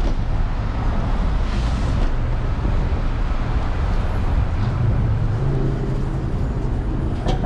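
Road traffic noise on a city street: a steady rumble of passing motor vehicles, with one vehicle's engine hum growing stronger after about five seconds and a short sharp click near the end.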